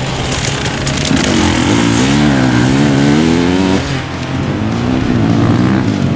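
Motorcycle engine running loudly, with its pitch wobbling up and down over and over from about a second in to nearly four seconds as the throttle is worked, then rising and falling again near the end.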